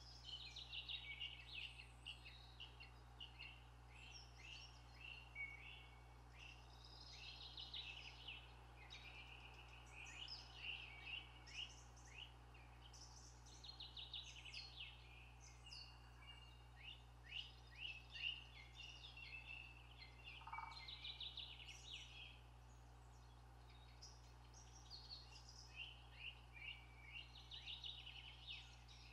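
Faint birdsong: several small birds chirping and trilling in quick runs of short notes, overlapping, with brief pauses, over a steady low hum.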